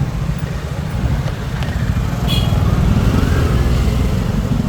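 Steady low rumble of wind buffeting the microphone and road noise while riding along on a motorbike in traffic.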